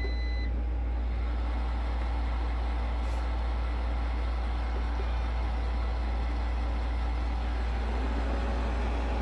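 Robot vacuums running with a steady low machine hum and whir. At the very start there is a short electronic beep chime, typical of a robot vacuum's start-up tones.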